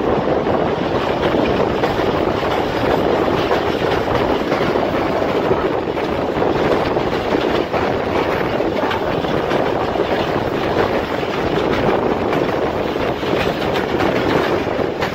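Passenger train coach running at speed, heard from an open carriage window: a steady, loud noise of wheels on the rails with a light rattle.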